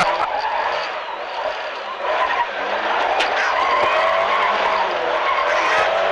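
Rear-wheel-drive Mk3 Ford Escort rally car driven hard on a loose, rough surface, heard from inside the car: the engine runs under power over a steady rush of tyre and stone noise, and its note shifts a couple of times.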